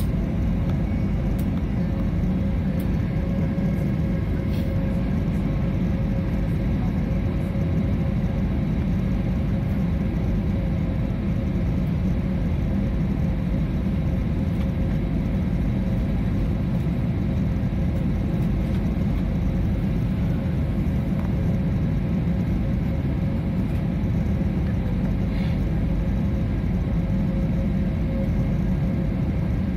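Steady drone of a passenger airliner's engines and airflow heard from inside the cabin, deep and even, with a faint steady hum above it.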